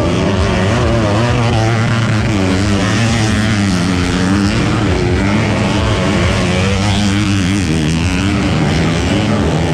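Modified underbone motorcycle engine revving hard. Its pitch rises and falls again and again as the throttle is worked.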